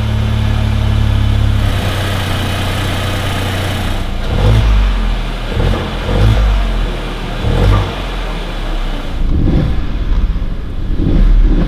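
Kia Stonic's 1.0-litre T-GDi turbocharged three-cylinder petrol engine idling steadily, then revved in several short throttle blips from about four seconds in.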